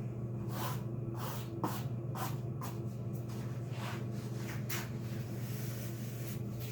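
Rustling and scraping of objects being handled, a string of short soft strokes about two a second that die away after about five seconds, over a steady low room hum.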